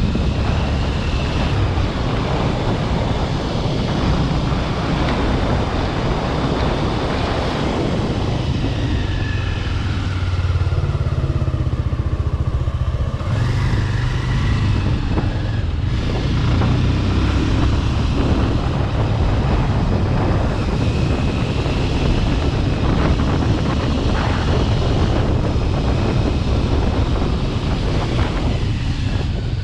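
Bajaj Pulsar RS200's single-cylinder engine running under way through a modified aftermarket exhaust. The engine note eases and picks up again around the middle.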